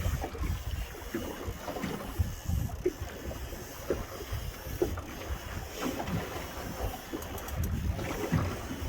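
Wind buffeting the microphone over sea water lapping, with small scattered knocks and splashes, typical of being afloat in a small boat.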